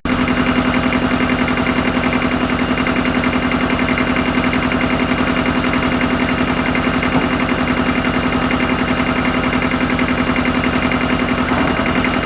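Ford 1700 compact tractor's diesel engine idling steadily with an even, rhythmic chug.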